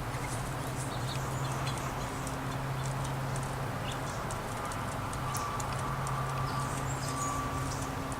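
Small songbirds at a feeder giving short, high chirps and twitters, with faint clicks, over a steady low background hum.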